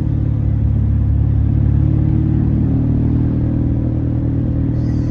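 Modified Volkswagen Mk4 Jetta engine and exhaust running at low speed with a loud, steady low drone, its pitch shifting slightly about halfway through.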